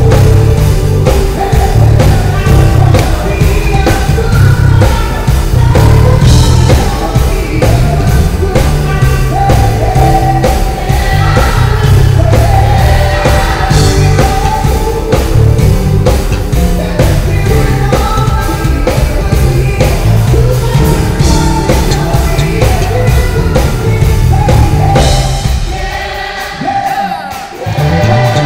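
Live band playing with singing over a heavy electric bass line and a steady beat, the music dropping off briefly near the end.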